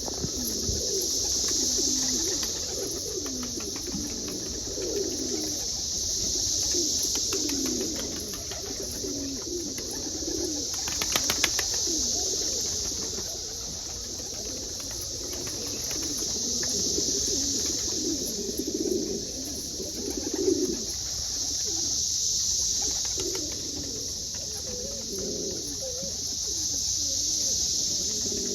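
Homing pigeons cooing over and over, the courting coos of birds in breeding condition. A high hiss swells and fades every few seconds behind them, and there is a short burst of clicks about eleven seconds in.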